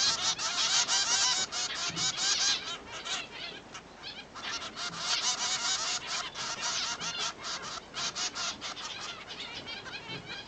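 Zebra finches giving a rapid, dense stream of short chirps. The chirping thins out about three seconds in, then picks up again.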